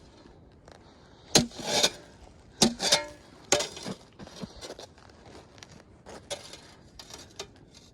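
Boots crunching and breaking through icy, crusted snow in a string of irregular steps, loudest in the first half.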